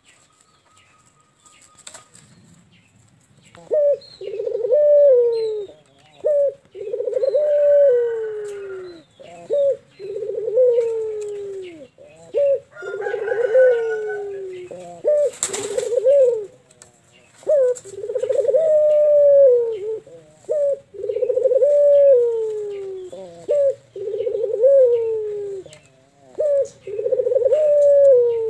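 A young puter (Barbary dove) cooing over and over: long coos that fall in pitch, separated by short notes, starting about four seconds in. There is a sharp click near the middle.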